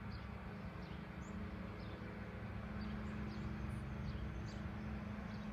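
Small birds chirping, short high chirps that fall in pitch, coming irregularly, over a steady low hum.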